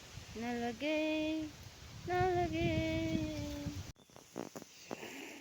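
A woman singing a Hindi song line unaccompanied, in long held notes with a slight waver. It cuts off suddenly about four seconds in, leaving quieter sound with a few faint clicks.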